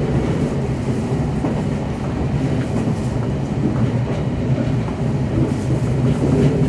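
Semboku Rapid Railway 7020 series electric train running, heard from the driver's cab: a steady rumble of wheels on the rails that grows a little louder near the end.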